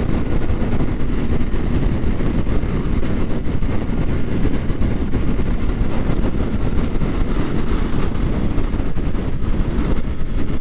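Steady wind and road rumble of a Kawasaki Ninja 400 motorcycle riding at speed, heard from the rider's own camera.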